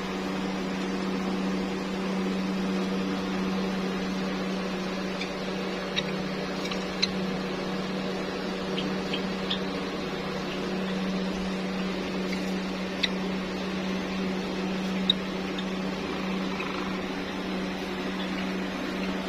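A steady electric motor hum, like a fan running, with a few brief sharp high-pitched chirps scattered over it.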